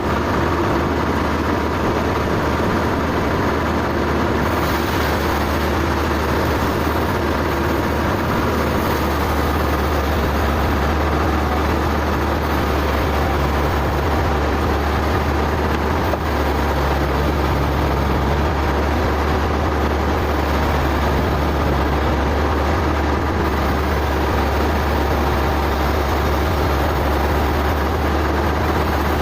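Sawmill machinery running steadily, a low engine drone under an even mechanical noise.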